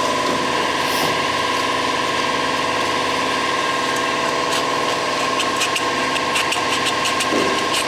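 A motor-driven machine running steadily at constant speed, with light clicks and ticks over its hum.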